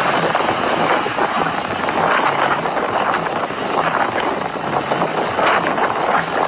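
Hurricane-force wind blowing hard as a dense, steady rushing noise, buffeting the microphone.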